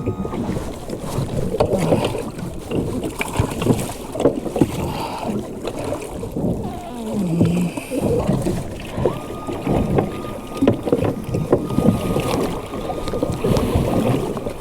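A small fishing boat's engine running while the hull takes irregular knocks and splashes from the water, with wind on the microphone.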